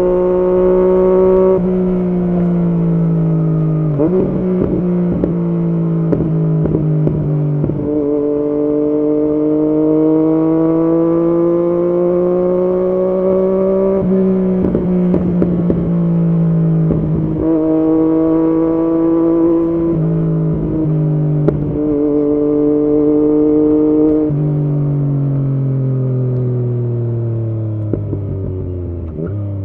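Yamaha MT-09's three-cylinder engine ridden through an aftermarket Arrow exhaust, climbing gently in revs and dropping in steps at gear changes. Bursts of exhaust crackle come through in places, and the engine note winds steadily down near the end as it slows.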